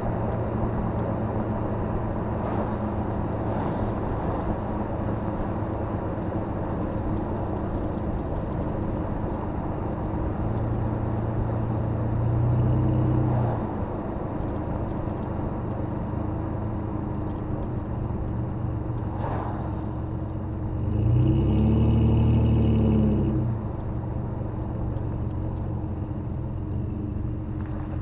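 Exhaust of a 2005 Jeep Grand Cherokee through a Thrush welded muffler, with the engine running at a steady drone while driving. The engine note swells and rises in pitch briefly about twelve seconds in, and again about twenty-two seconds in, before settling back.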